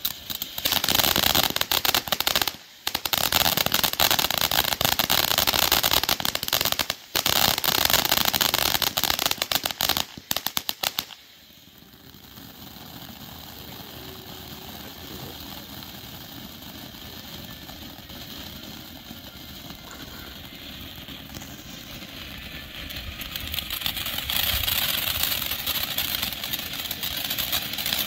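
Ground fountain fireworks spraying sparks: dense, rapid crackling for about the first eleven seconds, broken twice by brief pauses, then a softer steady hiss of sparks that grows louder again near the end.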